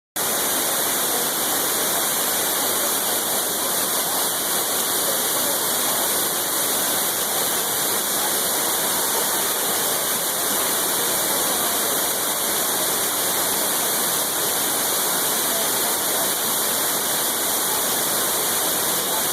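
Amicalola Falls waterfall: falling water making a steady, loud, unbroken rushing roar.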